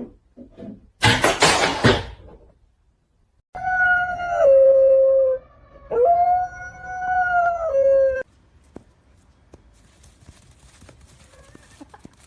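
A dog howling: two long, held howls, each starting higher and dropping in pitch near its end. Before them, a second or so in, comes a loud, rough, noisy sound.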